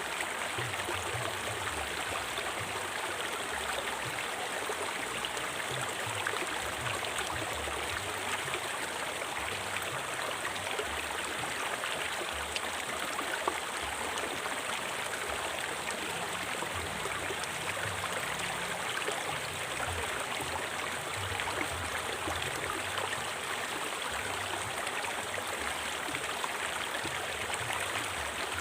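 A river flowing steadily: an even, continuous rush of water.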